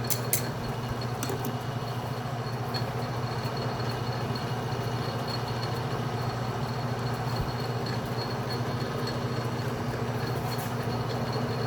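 Atlas metal lathe running steadily during a light cleanup pass on an internal square thread in 304L stainless steel. It makes a constant motor-and-drive hum with a faint high whine.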